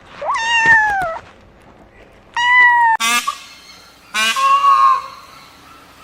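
Domestic cat meowing twice, long drawn-out meows that sag in pitch at the end. About halfway through it switches abruptly to two wavering bleats of a goat.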